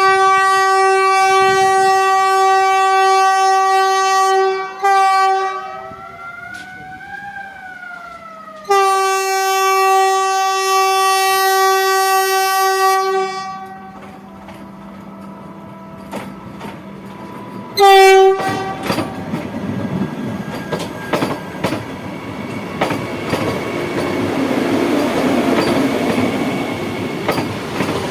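Train horn sounding two long steady blasts of about four to five seconds each, with a fainter tone rising and falling between them, then a short blast. The train then passes with a steady rumble and the clickety-clack of wheels over rail joints, growing louder near the end.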